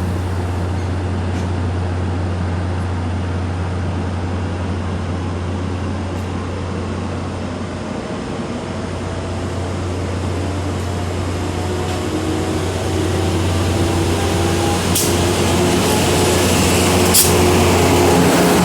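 Tri-Rail diesel locomotive hauling a five-car commuter train out of the station: a steady low engine drone, with the engine note climbing and the running noise growing louder in the second half as the train gets under way. A couple of sharp clicks come near the end.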